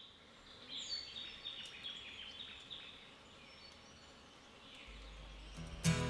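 Birds chirping and calling, a run of short chirps and quick falling whistles. Just before the end the band's music comes in, with guitar.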